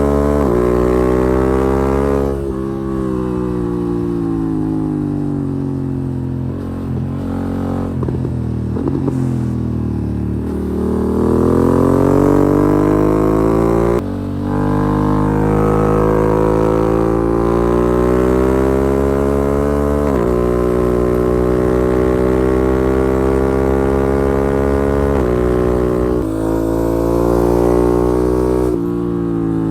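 BMW F900R parallel-twin motorcycle engine breathing through a Mivv exhaust with the dB killer removed, under way. After a couple of seconds the revs fall steadily for several seconds. They then climb in long rising ramps, with a sudden drop in pitch at each upshift, about every six seconds.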